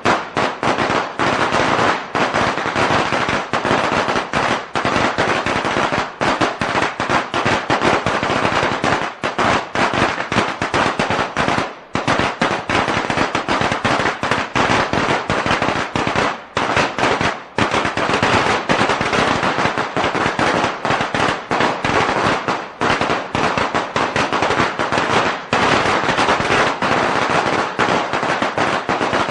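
A string of firecrackers going off in a dense, rapid, continuous rattle of sharp bangs, with a few brief lulls partway through.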